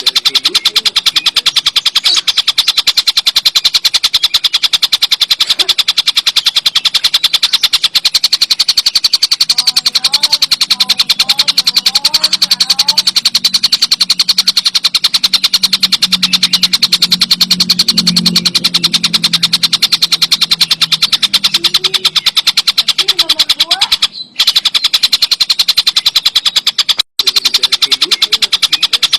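Tengkek buto, a kingfisher, giving a fast, unbroken rattling call of many clicks a second, with two brief breaks near the end.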